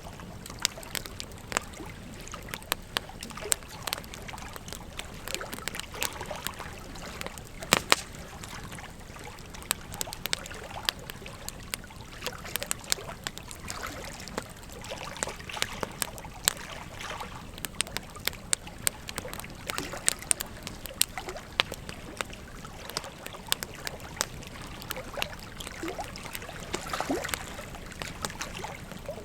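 Wood fire crackling with frequent sharp pops, over a steady rush of flowing river water.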